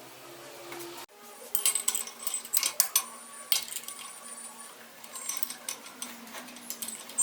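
Irregular sharp metallic clinks and taps starting about a second in, some with a short ringing tone, like metal parts being handled and knocked together.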